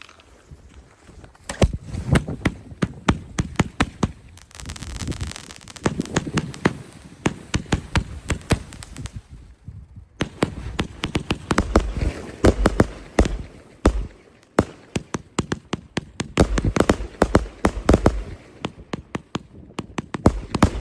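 Fireworks going off in quick, irregular succession: a dense run of sharp bangs and crackles with deeper booms beneath, pausing briefly about ten seconds in.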